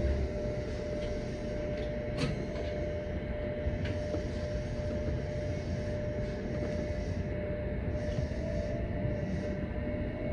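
Electric commuter train running, heard from inside the front car: a steady rumble of wheels on the rails under a steady hum, with a couple of sharp clicks.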